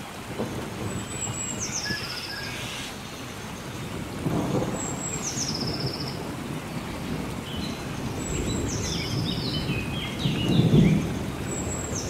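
Steady rain with rolling thunder, rumbling up about four seconds in and again, louder, near the end. A bird repeats a short, high, falling call over the rain.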